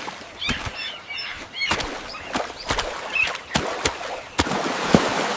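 Short bird chirps over a run of sharp, irregular clicks and taps and a steady hiss.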